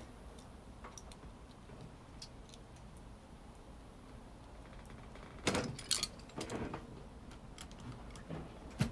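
Faint scattered clicks, then a cluster of sharper clicks and rattles about five and a half seconds in and a single click near the end: small plastic parts of a washing machine door switch being handled while it is taken apart.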